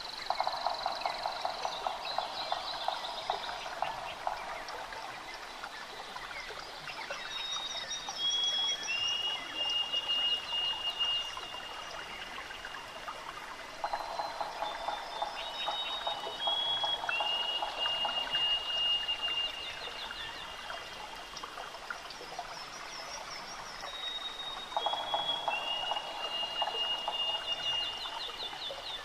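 Forest ambience: birds singing high, thin whistled notes in short stepped series, over a steady trickling-water hiss. A lower, rapid pulsing trill comes in three times, about every eleven seconds.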